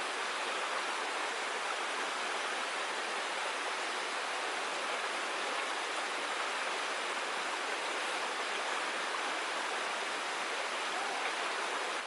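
Creek water flowing, a steady unbroken rush.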